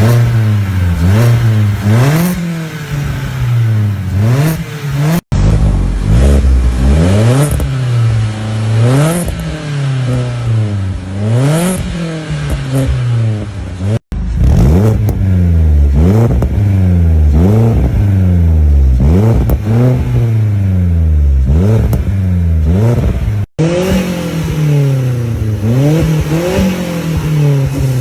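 Opel Corsa D engine revved repeatedly at standstill through an aftermarket racing exhaust, the pitch rising and falling about once a second. The sound breaks off abruptly three times between clips.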